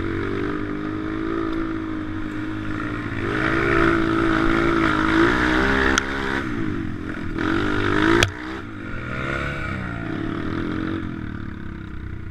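Pit bike engine being ridden, revving up and easing off again and again, loudest a few seconds in, with two sharp knocks about two seconds apart in the middle.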